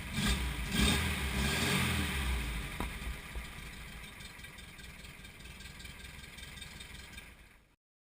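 Air-cooled flat-four engine of a 1961 Porsche 356 1600 Super running through a Sebring exhaust. It swells in the first couple of seconds, then drops back to a lower steady run, and the sound cuts off abruptly near the end.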